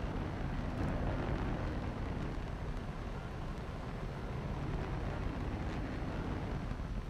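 Airplane noise: a steady, low rumble with no distinct events.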